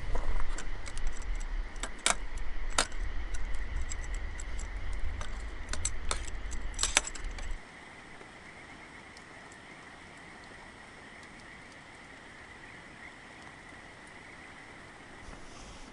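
Metal camp cookware and utensils clinking and jangling over a low rumble. The sound stops abruptly about halfway through. After that only a quiet, steady background is left, with a faint high tone.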